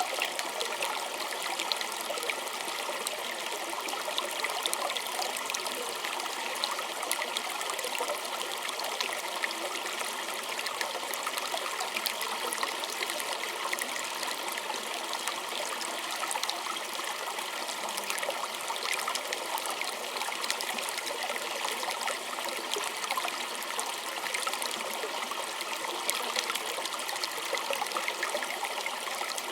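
Small stream trickling and burbling steadily over stones, a constant splashy rush of water with fine bright flickers and no let-up.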